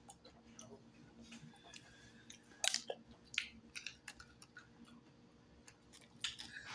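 Close-up mouth sounds of chewing and biting deep-fried turtle meat pulled off a piece of shell. The chewing is quiet, with a few sharper crunchy clicks about three seconds in and again near the end.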